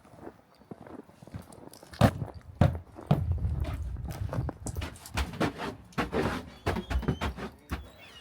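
Footsteps and handling noises: two sharp thumps about two seconds in, then a steady run of shuffling, thudding steps and clicks.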